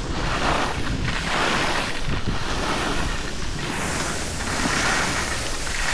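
Wind rushing over the microphone of a skier moving fast downhill, with the hiss of skis sliding on snow swelling and fading every second or so.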